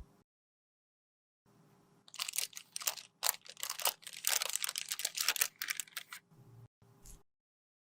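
Close-miked crunching and crinkling as cosmetic products are worked by hand: a dense run of small crackles and scratchy clicks for about four seconds, starting about two seconds in, then a soft thump and one short scrape near the end.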